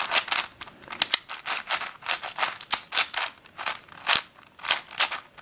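Witeden 3x3x9 cuboid twisty puzzle being scrambled by hand: quick, irregular clicking and clacking of its plastic layers being turned, several clicks a second.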